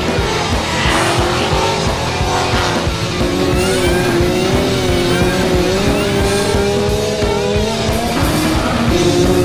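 Engine revving and tyres squealing through a drift, with a wavering pitch, over background music with a steady beat.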